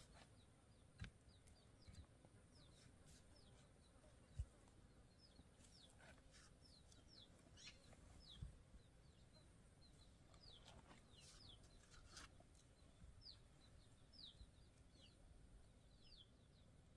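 Faint birdsong: many short, quickly falling chirps from small birds. A few soft low thumps come through as mud bricks are set into the wall, the loudest about four seconds in.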